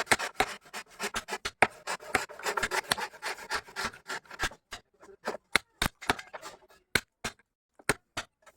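A hand tool working wood: a quick run of rasping, scraping strokes, then fewer, sharper separate strokes with short pauses from about four and a half seconds in.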